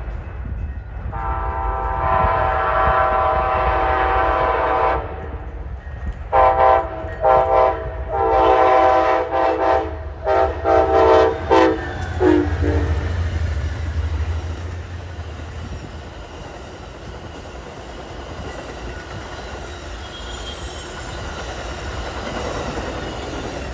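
Amtrak passenger train passing at speed and sounding its air horn: one long blast, then a run of about eight short blasts, the last one dropping in pitch as the locomotive goes by. The rumble of the wheels on the rails follows and slowly fades.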